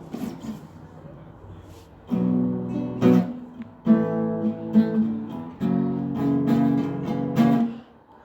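Acoustic guitar in a song's instrumental intro: a few light plucks, then strummed chords from about two seconds in, played in short phrases with brief gaps. It stops just before the end.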